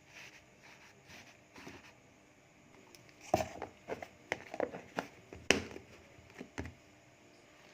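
Kitchen handling sounds: a soft rustle of leaves and tissue paper, then from about three seconds in a run of sharp clicks and knocks from a plastic storage box and its lid being handled. The loudest knock comes about five and a half seconds in.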